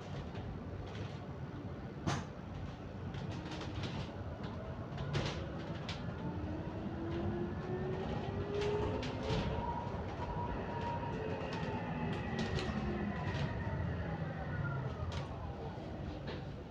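Inside a moving double-decker bus: a drivetrain whine rises in pitch as the bus speeds up, then falls as it slows, over a low running rumble with scattered rattles and clicks.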